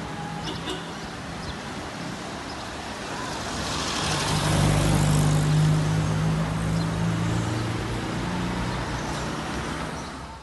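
A car, the lowered Renault Kwid, running past: engine hum and tyre noise swell to their loudest about four to six seconds in, then ease off.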